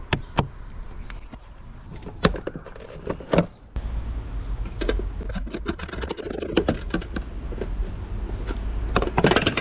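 Hand tools and metal parts clicking, clinking and knocking during work on the car, with a quick run of clicks about midway and a cluster of knocks near the end, over a steady low hum.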